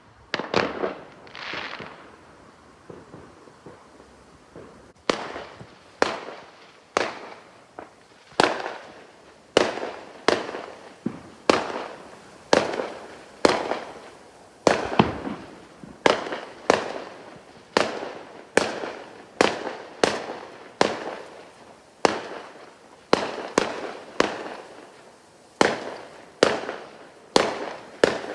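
Fireworks bursting: a couple of softer swells at first, then from about five seconds in a long, regular run of sharp bangs, one to two a second, each trailing off in a short echo.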